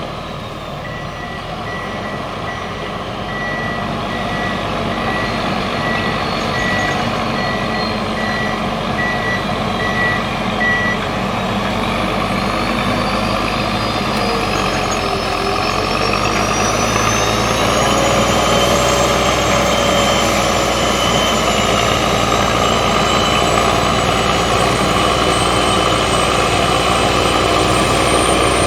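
The MAN diesel engine of a 2010 Prinoth Leitwolf W snow groomer running under heavy load as it works a steep slope anchored to its winch. For about the first ten seconds a warning beeper sounds in a row of short beeps. After that the engine grows louder and the turbocharger whistle rises steadily in pitch.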